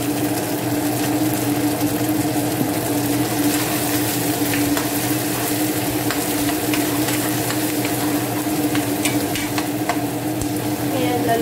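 Chopped onions and garlic sizzling in oil in a nonstick frying pan while a metal spoon stirs and scrapes them, with scattered light clicks of the spoon on the pan. A steady low hum runs underneath.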